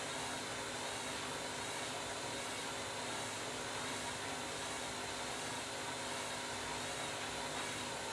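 Washing machine running with a steady, even whirring hiss and hum.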